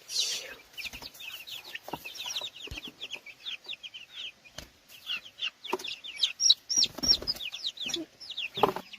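Many small birds chirping continuously, a dense stream of short high chirps several times a second. There are a few knocks, and a louder, lower sound comes near the end.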